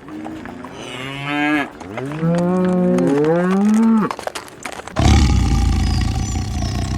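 A cow mooing several times, drawn-out calls that bend in pitch. About five seconds in it cuts off and a loud, low rumbling noise starts suddenly.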